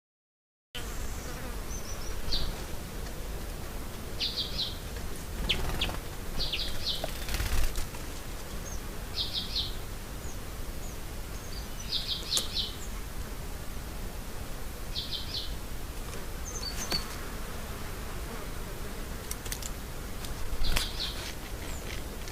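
A small bird repeating a short call of three or four quick high notes every few seconds, over a steady hiss of outdoor background.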